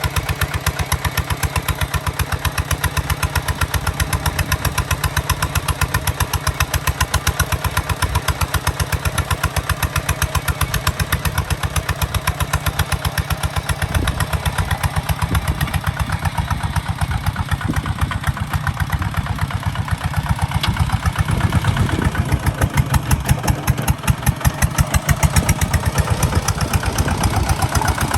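Kubota ZT 155 DI single-cylinder diesel engine on a walk-behind tractor, running steadily with an even chugging beat; the beat grows louder about three-quarters of the way through.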